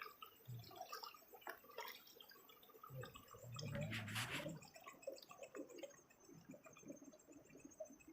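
Faint drips and small splashes of water from someone wading and moving through shallow water, with a louder slosh about four seconds in.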